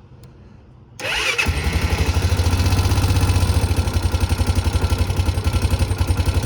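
ATV engine cranked on its electric starter with the choke held on, catching almost at once about a second in and then running at a fast, even beat: a cold start on the first turnover.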